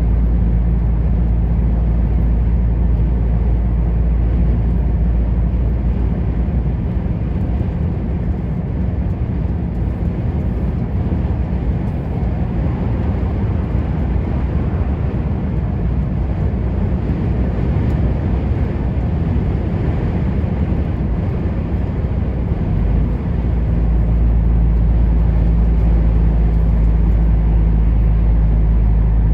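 Heavy truck on the move: a steady low engine drone over road and tyre noise. The deep engine tone eases off about 7 seconds in and comes back strong near the end.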